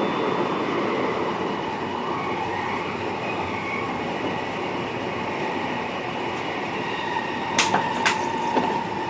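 VIRM double-deck electric train running along the track, heard from the driver's cab as a steady rumble and hiss. Near the end come two sharp clicks about half a second apart, and a faint steady whine comes in.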